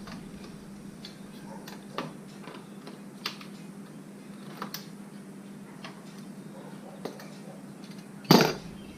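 Scattered light clicks and taps of hands and tools working the lower radiator hose and clamp off a Jeep radiator, with one louder knock about eight seconds in, over a steady low hum.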